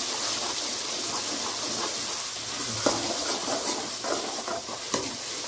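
Onion and garlic paste sizzling with a steady hiss as it fries in hot oil in a kadhai, stirred with a steel spoon that clicks against the pan a few times.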